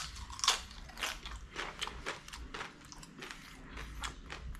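A person chewing a mouthful of beef, bean and cheese burrito close to the microphone, in a steady run of wet chews about three a second, with a sharper bite near the start.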